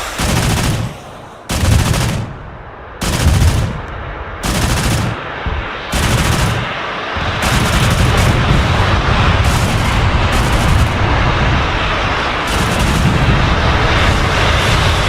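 Pantsir-S1's twin-barrel 30 mm autocannons firing: several short bursts of rapid fire with brief gaps, then from about seven seconds in a long continuous burst.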